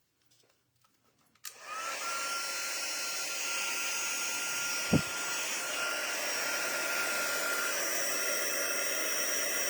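Embossing heat tool switched on about a second and a half in and blowing steadily with a thin whine, melting embossing powder for heat embossing. A short thump about five seconds in.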